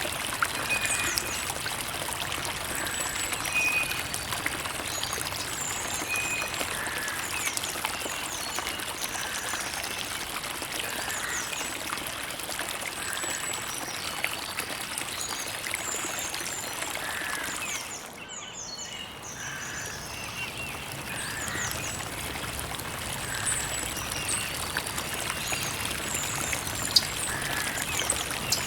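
Creek water running and trickling steadily, with small birds chirping repeatedly in the background. About two-thirds of the way through, the water sound briefly drops and thins out before picking up again.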